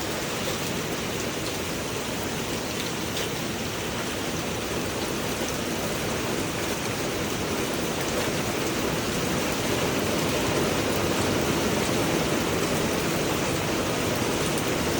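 Steady rain falling on a rooftop, a dense even hiss of many drops that grows a little louder about ten seconds in.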